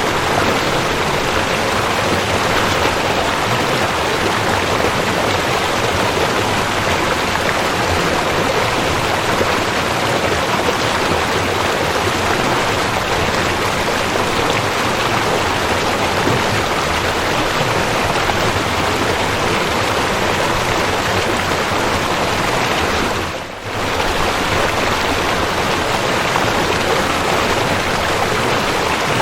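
Steady, even rush of a waterfall, with a brief dip in loudness about three-quarters of the way through.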